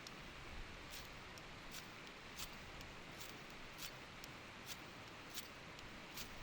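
Faint steady rush of a mountain stream, with sharp small clicks about every half second to second.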